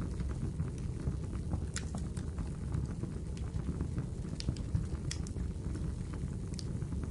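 Wood fire crackling in a fireplace: scattered sharp pops and snaps, a few louder ones, over a steady low rumble of flame.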